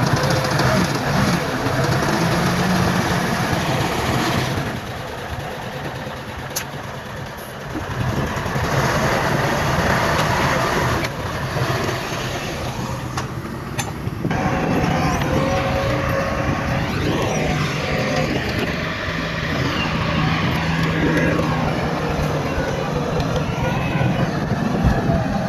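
Heavy diesel construction machinery running: the steady engine noise of a bulldozer and dump trucks at work. The sound shifts abruptly several times.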